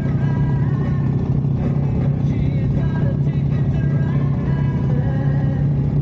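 Harley-Davidson V-twin motorcycle engine running steadily at cruising speed, with music playing over it.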